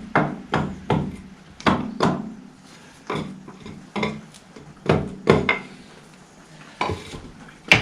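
Irregular knocks and clinks, about a dozen over several seconds, as the bull pinion and its bearing are pushed and worked into the back end of a 1955 Fordson Major tractor.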